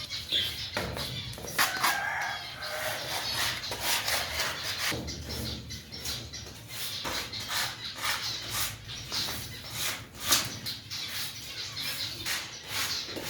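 Caged birds calling, mixed with many short knocks and scrapes from the cage being cleaned by hand.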